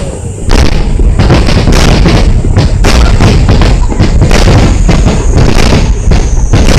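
Fireworks shells bursting in quick, overlapping succession: a loud, dense barrage of booms that starts about half a second in.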